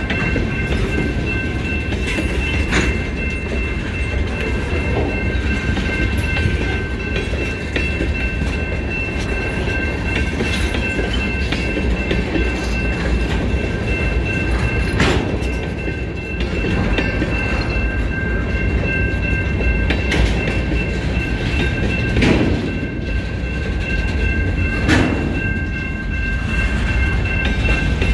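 Freight train of tank cars and boxcars rolling past at close range: a steady rumble with a few sharp clanks of wheels over the rail joints. Three steady high ringing tones hang over it throughout.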